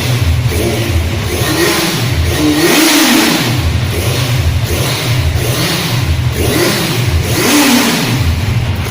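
A 1000 cc motorcycle engine revved through its exhaust in repeated throttle blips, the pitch rising and falling back to a low idle between them, with the biggest revs about three seconds in and near the end.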